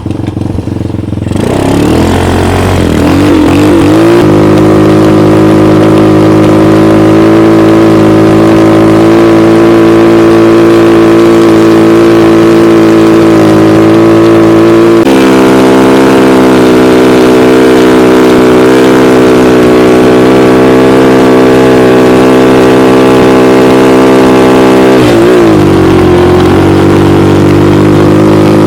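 Homemade snowmobile's engine revving up over the first few seconds, then running loud and steady at high revs under load. Its note steps slightly about halfway through, and its revs drop briefly and pick up again near the end.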